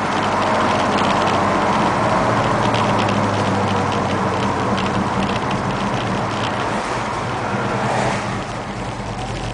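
A 1971 Plymouth Satellite's 360 V8 running steadily while the car cruises, heard from inside the cabin as a low drone over road noise. The engine sound softens a little about eight seconds in.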